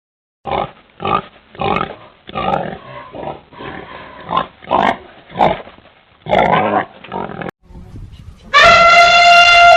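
A run of about ten short, muffled animal calls, then, near the end, a loud, long trumpet call from an elephant.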